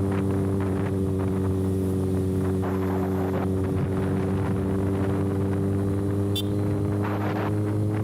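Kawasaki ZX-6R inline-four running with no silencer can on its exhaust, held at steady cruising revs with the note creeping slightly higher, under gusts of wind on the microphone.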